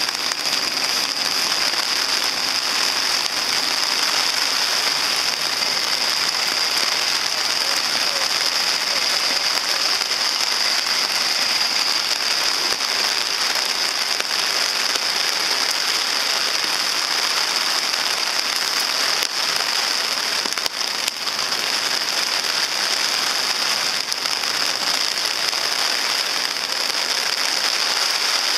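Heavy typhoon rain falling, a steady loud hiss.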